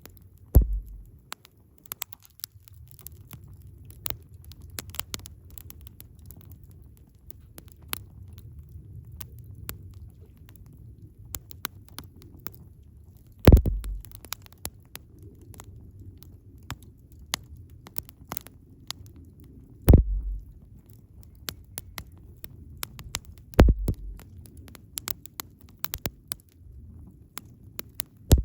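Wood campfire crackling with a steady scatter of small clicks and pops over a low rumble. Four louder pops, each with a low thump, come about half a second in, near the middle, at around two thirds of the way and shortly after.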